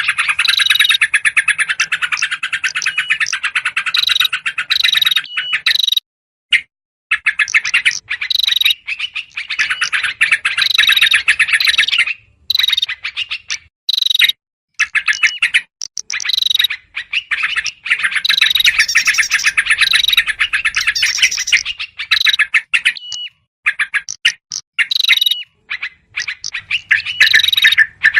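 Bird-lure recording of yellow-vented bulbuls calling noisily and agitatedly, mixed with prinia calls: dense rapid chattering with short repeated whistled notes. It breaks off briefly a few times.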